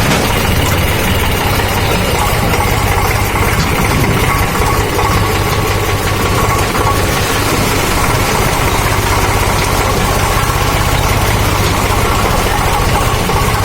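Tractor diesel engine running steadily, with an even low note and no change in speed.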